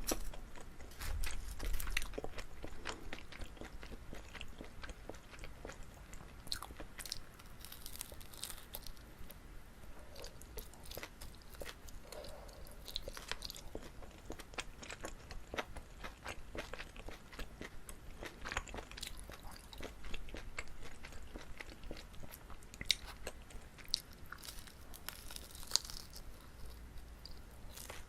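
Close-miked chewing and biting of chewy Korean rice cakes filled with gondre (thistle) greens: irregular sticky smacks and small clicks, with a few low bumps in the first two seconds.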